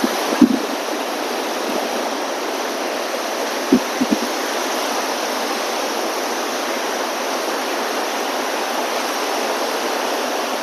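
Steady rushing of storm surf breaking on the beach, mixed with strong wind, with a couple of short thumps about four seconds in.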